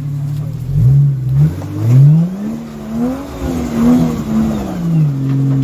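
A 4WD's engine revving in repeated bursts as it climbs a slippery rock track, its pitch rising and falling several times before settling back to a steady lower rev near the end.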